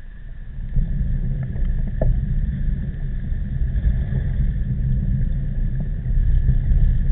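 Strong typhoon wind buffeting the microphone of a bicycle-mounted camera while riding: a heavy, continuous low rumble that swells up about half a second in and stays loud.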